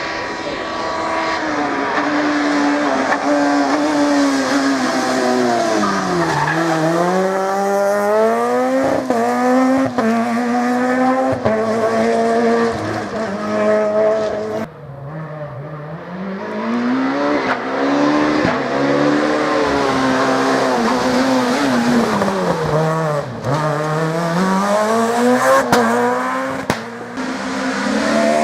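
Rally car engines run hard on a stage. The pitch drops sharply as each car brakes and downshifts, then climbs again in steps through the gears. The sound changes abruptly about halfway through to another car doing the same.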